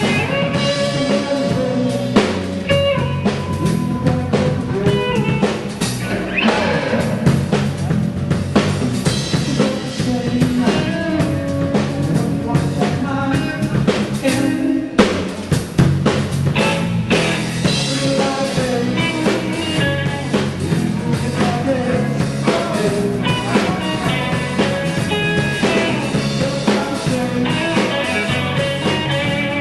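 A rock band playing live, the drum kit keeping a steady beat under the instruments.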